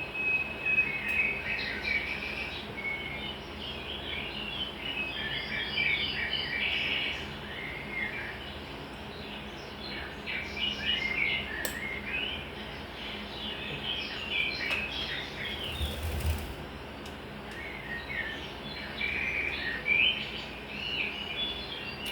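Small birds chirping and twittering in quick, overlapping calls, over a faint steady hum, with a few sharp clicks and a brief low thump about sixteen seconds in.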